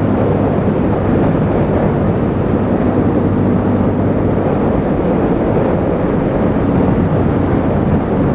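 Motorcycle engine running steadily at road speed, mixed with the rush of wind over a helmet-mounted microphone.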